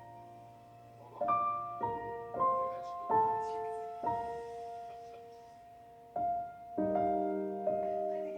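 Slow, gentle piano background music: single notes and soft chords struck a second or so apart and left to ring out.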